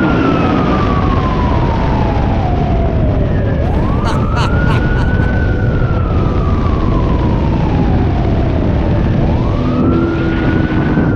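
Siren wailing: each cycle rises quickly, then falls slowly over about three seconds, repeating roughly every five seconds over a steady rushing noise.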